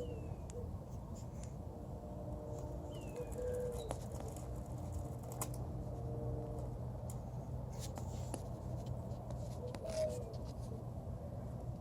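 A dog working at a Cheetos chip bag: scattered crinkles and taps of the plastic bag. Birds call in the background, with a few short falling chirps.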